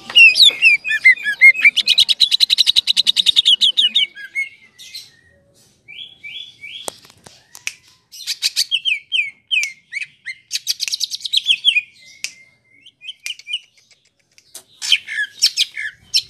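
Greater green leafbird (cucak ijo) singing its long rolling song: fast rattling trills of rapidly repeated notes alternating with short down-slurred whistles, broken by brief pauses about five seconds in and again near the end.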